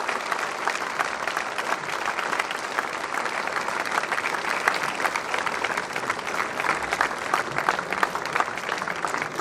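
A large audience applauding: steady, sustained clapping from many hands in a hall.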